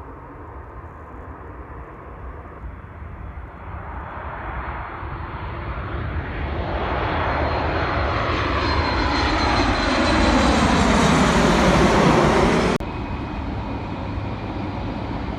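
Ryanair Boeing 737's twin jet engines on landing approach, growing steadily louder for about twelve seconds with a high whine over the rumble. The sound drops suddenly about 13 seconds in to a quieter steady rumble.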